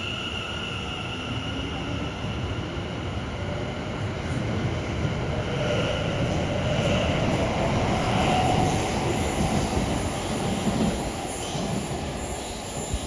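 Class 701 'Arterio' electric multiple unit running on the rails: a steady rumble and hiss with faint high whining tones. From about halfway, a tone rises slowly as the sound grows a little louder.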